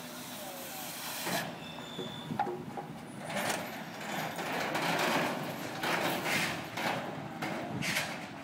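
Rumbling, clattering noise with knocks that grows louder about three seconds in, then several sharp knocks near the end.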